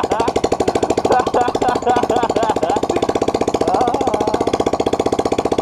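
Yamaha YBR125's single-cylinder four-stroke engine idling steadily through its exhaust, a rapid even run of pulses.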